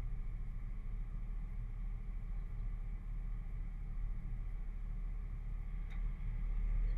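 A Jeep's engine idling steadily, heard through the body of the stopped vehicle, as a low, even rumble. There is one short click about six seconds in.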